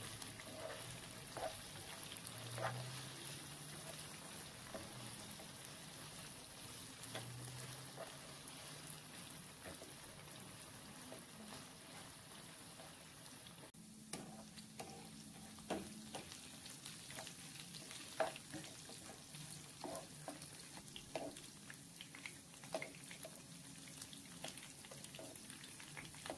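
Chicken pieces shallow-frying in oil in a pan: a faint steady sizzle with scattered pops and clicks, as a spatula stirs and turns the pieces now and then.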